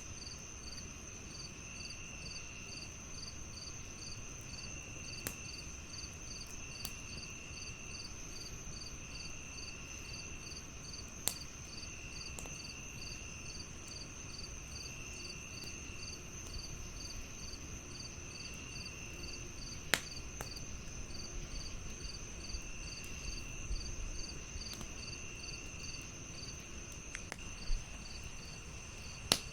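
Crickets chirping: an even, pulsing chirp about two to three times a second over a continuous high trill, with a lower chirp coming in short runs. A wood fire gives a few sharp, isolated pops, about five in all.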